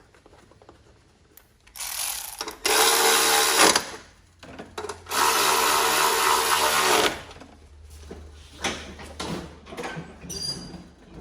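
Power drill driving screws tight, two runs of about two seconds each at a steady pitch.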